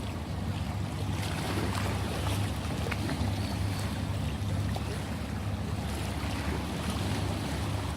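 Ocean surf: a steady rushing wash of waves with a low rumble underneath.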